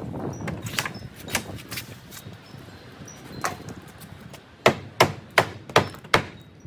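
Hammer blows during demolition: a few scattered knocks, then a quick run of five hard strikes near the end.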